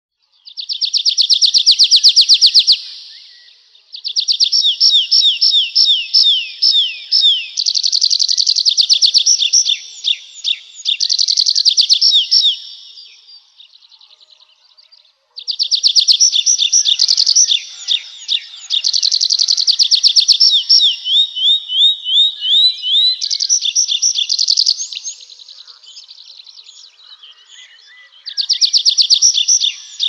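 A songbird singing four long phrases of rapid, high, trilled notes, with pauses of one to three seconds between phrases.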